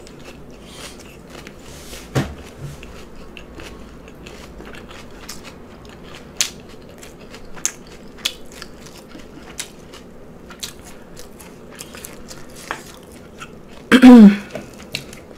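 Close-miked chewing and biting of food: wet mouth clicks and crunches. Near the end comes one loud, short vocal sound from the eater that falls in pitch.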